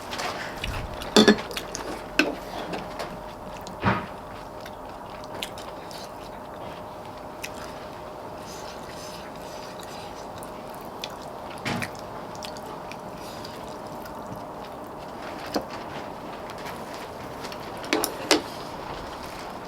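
Scattered clinks and knocks of dishes and utensils over a faint steady hum, the loudest about a second in and twice near the end.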